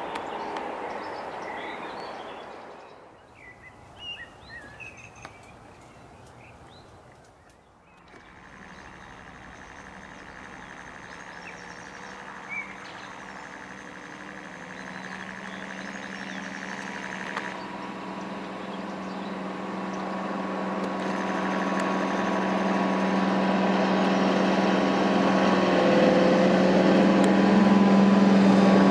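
Train noise fading into a lull with a few bird chirps. From about eight seconds in, the twin Napier Deltic two-stroke diesel engines of Class 55 locomotive 55022 drone with several steady held tones and grow steadily louder as the locomotive approaches.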